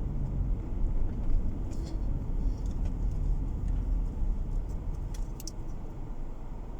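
Steady road noise of a car being driven, heard inside the cabin: a low rumble of tyres and engine, with a few light rattles about two seconds in and again near five seconds.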